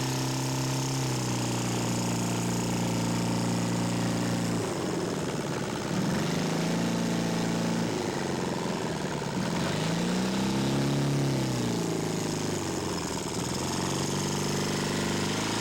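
Engine of a radio-controlled model Edge aerobatic airplane in flight after a touch-and-go. It runs at a steady pitch for about four seconds, then its pitch swings up and down several times as the plane passes and manoeuvres.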